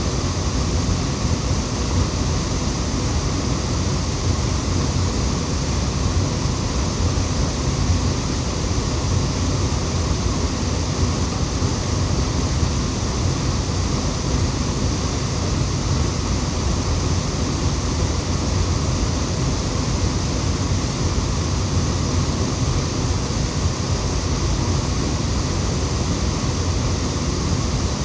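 Waterfall rushing, a steady, unchanging roar of falling water.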